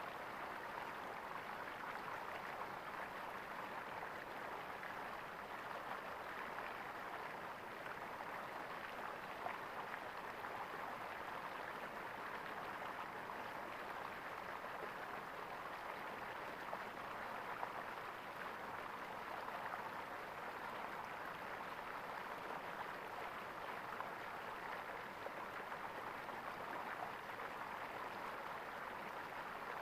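Running water gurgling steadily, like a small stream, with a few faint splashes.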